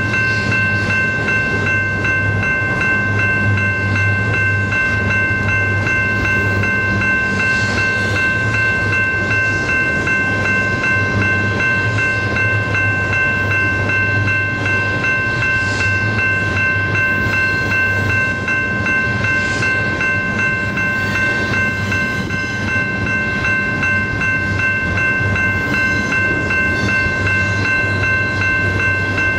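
Double-stack intermodal container train's well cars rolling steadily past, a continuous rumble with faint repeating wheel clicks, under several steady high-pitched tones.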